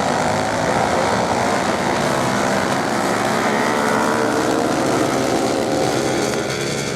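Racing motorcycle engines running at high revs on a sand track, a steady loud drone that eases slightly near the end.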